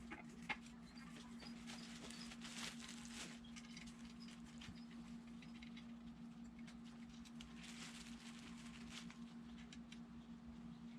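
Faint, scattered light clicks and taps of small engine parts being handled, over a steady low hum.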